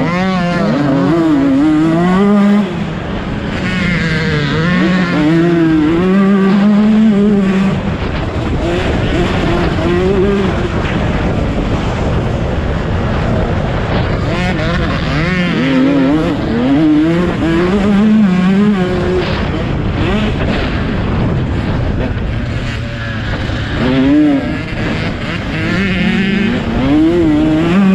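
Motocross bike engine revving hard and falling back again and again as it is ridden round a dirt track, its pitch rising and dropping every second or two.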